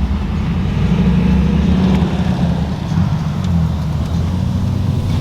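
A car's engine running steadily under way, a constant low drone with road noise.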